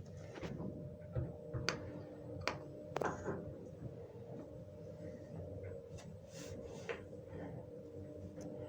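Old 1970s lift running with a steady hum, with a few sharp clicks in the first three seconds and fainter ones later.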